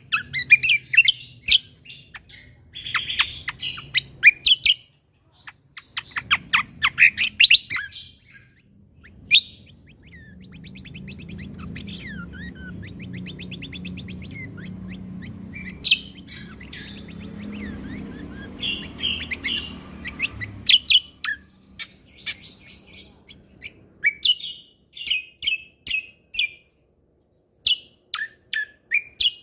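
Cucak kombo (kecial kombo) songbird singing: bursts of sharp, rapid chirps and whistled phrases, with a fast rattling trill in the middle over a low hum.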